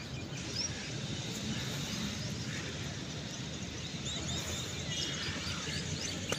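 Open-air background noise, steady throughout, with small birds chirping here and there.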